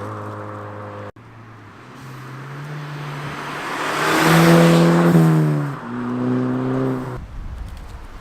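Turbocharged Volkswagen four-cylinder with a resonator-deleted exhaust driving past: engine pitch falling, a sudden cut about a second in, then pulling up to a loud peak around halfway, dropping on a gear change and pulling again before it cuts off abruptly near the end, leaving wind noise.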